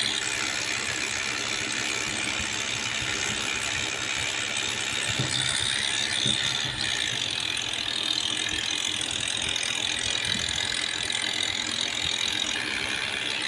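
Tractor running with a steady, dense mechanical rattle.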